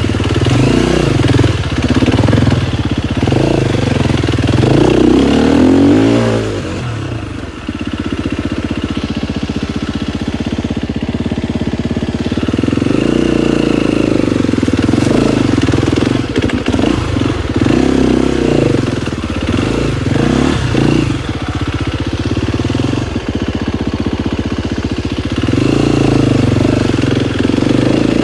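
KTM 250 XCF-W's single-cylinder four-stroke engine on a trail ride, rising and falling in pitch with the throttle. It drops off briefly about seven seconds in, then picks up again.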